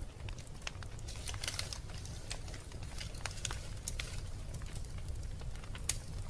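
Wood fire burning in a fireplace: irregular sharp crackles and pops over a steady low rumble of the flames, with one louder pop near the end.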